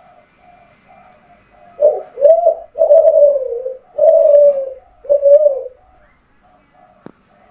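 Kelantan-strain spotted dove (derkuku) cooing: one loud phrase about two seconds in, two short notes followed by three longer drawn-out coos, with fainter cooing in the background. A single sharp click near the end.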